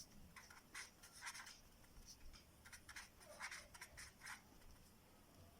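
Handwriting: faint, short scratchy pen strokes, one after another, as an answer is written out.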